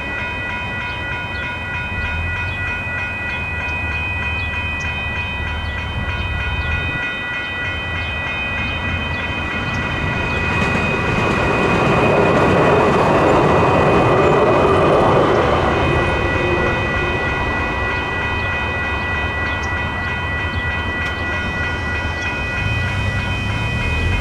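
Electronic railroad crossing bells ringing steadily as a light rail train passes through the crossing. The train's running noise swells to its loudest around halfway and then eases off.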